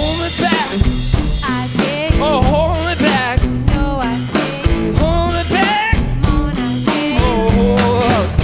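Blues-rock duo playing: a wavering, bending lead melody over chords and a drum-kit beat.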